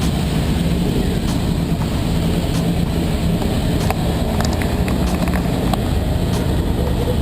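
Steady low rumble aboard a 1953 Ferrari 375 MM on the move, with a constant low tone and scattered light clicks and rattles.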